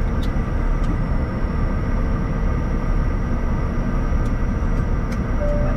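Bombardier Challenger 350's Honeywell HTF7350 turbofan engines running: a steady rumble with several steady, high whining tones over it.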